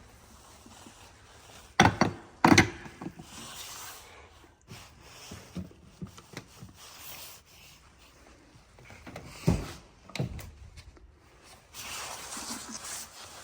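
Handling noises: two loud sharp knocks about two seconds in, another thump in the middle, and rustling in between.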